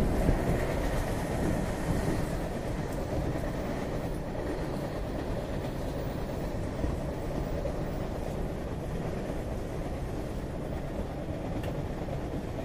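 MBTA Red Line train car heard from inside while moving: a steady low rumble of wheels on track, a little louder in the first couple of seconds.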